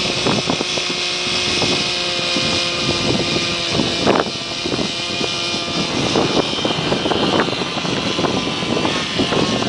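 Hirobo Shuttle radio-controlled helicopter in flight: its small engine gives a steady pitched whine over the rotor. Strong wind buffets the microphone throughout.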